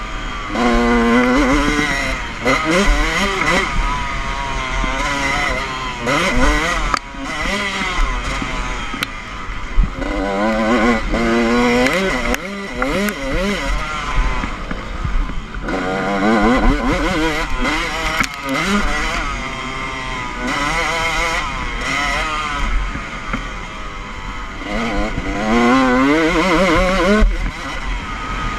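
Motocross bike engine revving hard through the gears, its pitch climbing and dropping again and again as the throttle opens and closes.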